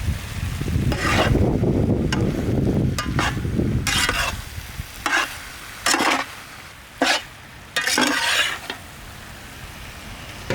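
Chicken in a thick sauce being stirred in a pan, a cooking spoon scraping the pan in about seven short strokes roughly a second apart. A low steady rumble runs under the first half.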